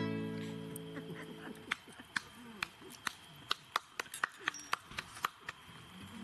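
The last strummed chord of an acoustic guitar rings out and fades. Then a run of sharp, irregularly spaced pops and snaps follows, the crackling of a campfire.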